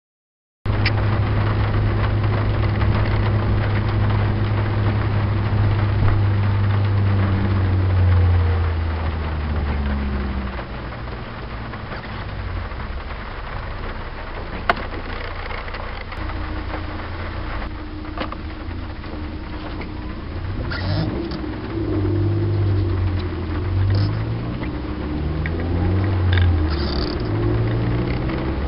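Citroen Saxo's 1.4-litre 8-valve four-cylinder engine heard from inside the cabin: held at steady revs, then eased off about eight seconds in and running quieter. In the last third the revs rise and fall several times as it is driven hard through the gears.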